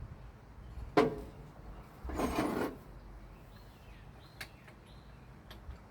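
Hand-turning of a 1965 Ford Thunderbird V8 with a breaker bar on the crankshaft, spark plugs out: a sharp metallic clank about a second in, then a short scraping rasp, and a few faint ticks.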